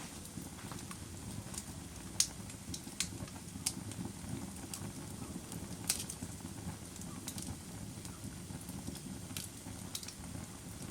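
Fire crackling: irregular sharp pops and snaps, the loudest about two and six seconds in, over a steady low rumble of burning.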